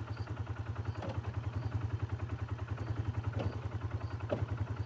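Polaris Sportsman 570 ATV's single-cylinder engine running steadily at low revs with an even pulsing beat, with a few short knocks and rattles from the machine on rough trail.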